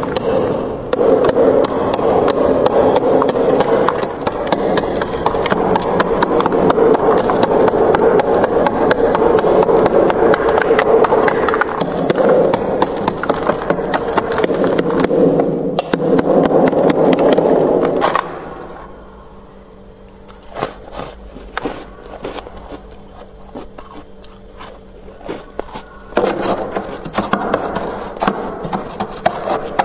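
Freezer frost being scraped: a dense, continuous scratching and crackling that drops away about 18 seconds in to a few scattered clicks, then starts up again about 8 seconds later.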